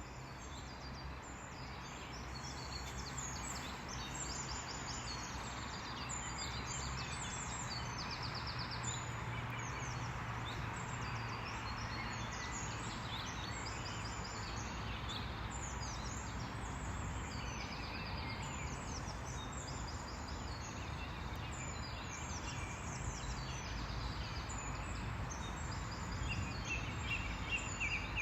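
Many birds singing and chirping over a steady rushing noise with a low hum underneath. The rushing noise swells over the first few seconds and then holds.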